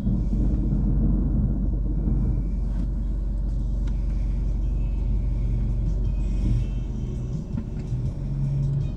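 Car driving, heard from inside the cabin: a steady low rumble of engine and road, with music playing underneath.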